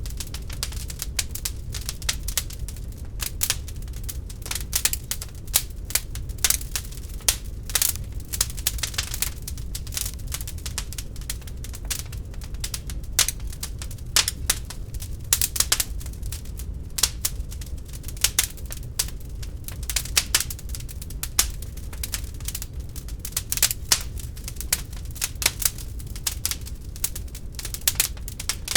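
Wood fire burning in a fireplace, crackling with many irregular sharp pops of varying loudness over a steady low rumble.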